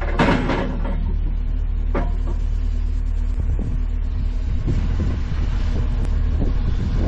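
Strong wind buffeting the microphone: a steady low rumble, with a few faint clicks scattered through it.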